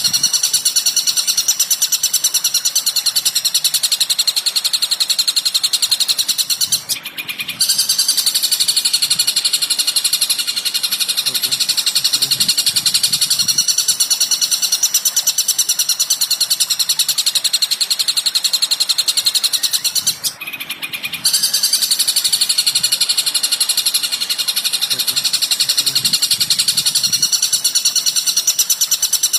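Recorded songbird masteran: a loud, dense, rapid high-pitched chirping chatter that breaks off briefly twice.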